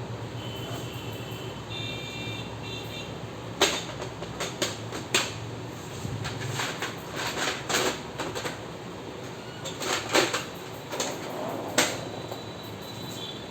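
A Brother HL-2321D laser printer's plastic parts being handled: an irregular series of sharp clicks and knocks, like a cover or cartridge being opened, pushed and snapped into place. A low hum runs under the first half.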